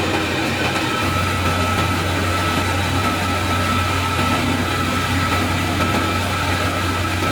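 A motor running steadily, with a constant low hum and a thin high whine over it.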